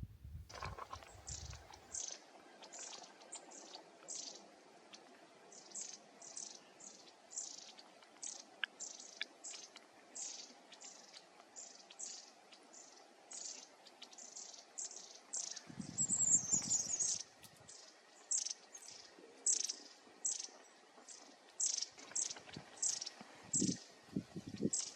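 Small bird calling over and over: a long series of short, high, falling chirps, two or three a second, with one louder, longer call about two-thirds of the way through.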